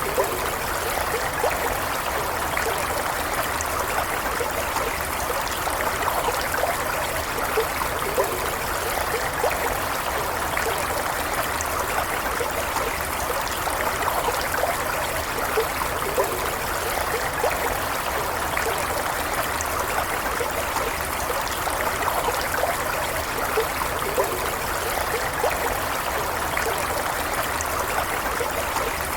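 A stream of water flowing and trickling steadily, with small splashes and gurgles.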